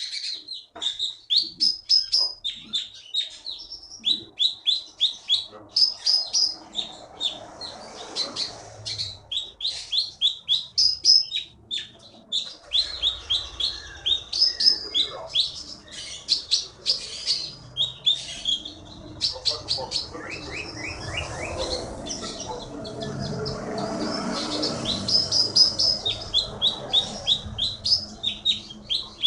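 Konin songbird singing continuously: rapid runs of sharp, high chirps and trills, hardly pausing, which Indonesian bird keepers call 'gacor'. A low background murmur rises under the song in the second half.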